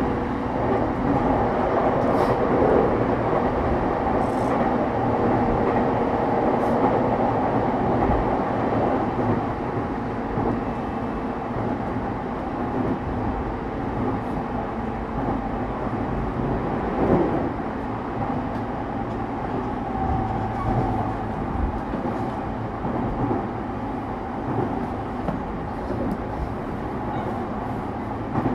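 JR East E231 series suburban train running, heard aboard motor car MoHa E231-1095, which has a Hitachi IGBT-VVVF inverter: a steady rolling rumble of wheels on rail. Faint steady tones come and go over it.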